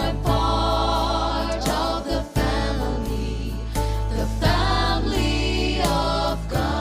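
Gospel music: a choir singing over instrumental accompaniment with sustained low bass notes.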